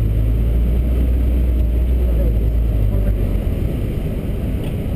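1993 Mazda Miata's 1.6-litre four-cylinder engine running at low revs as the car rolls slowly, a steady low drone that eases off about three and a half seconds in.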